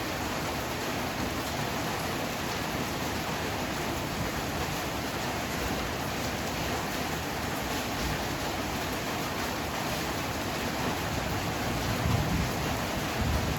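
Heavy rain pouring steadily, a dense even hiss, with a brief low rumble about twelve seconds in.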